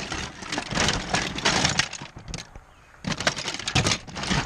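Hard plastic action figures, vehicles and accessories clattering and rattling against one another as hands rummage through a tote of vintage toys, in two bouts with a short pause between them.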